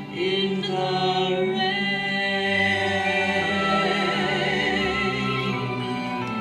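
Operatic-style musical-theatre singing with orchestral accompaniment: a long held final note of a love duet, sung with vibrato.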